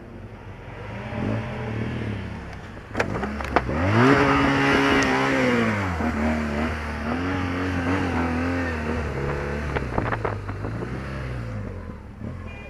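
A road vehicle's engine accelerating: its pitch climbs sharply a few seconds in and holds high for about two seconds under a loud rush of wind and road noise, then drops back and runs steadily lower. A few sharp clicks are heard, two shortly before the climb and one later.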